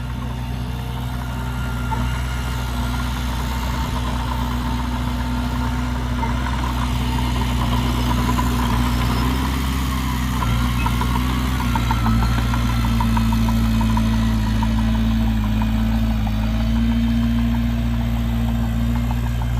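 Heavy diesel engine of earthmoving machinery running steadily, with a low, even drone.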